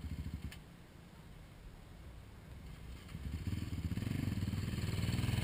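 ATV engine running low and steady, then revving up and growing louder from about three seconds in. A single sharp click about half a second in.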